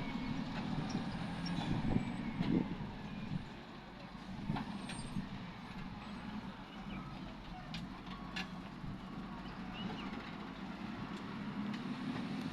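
Heavy machinery running at work, an engine rumbling steadily and easing off after the first few seconds, with a few short sharp knocks and clanks over it.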